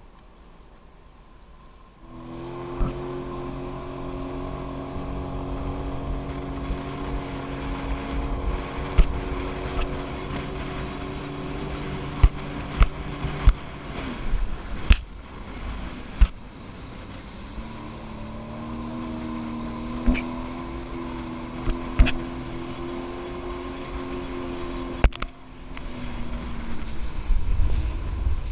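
Jet ski engine running steadily at low speed, its drone coming in about two seconds in, easing off around the middle and picking up again. Scattered sharp knocks come through over it, and a low rumble builds near the end.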